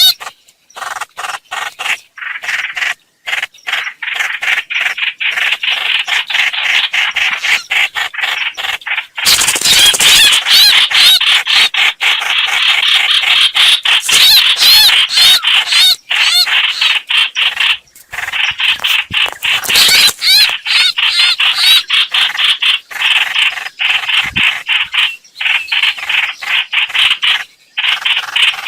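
Recorded calls of the bird known in Vietnamese as 'hoạch hoạch', played as a bird-trapping lure: loud, rapid, repeated chattering notes that run almost without pause, with short breaks now and then.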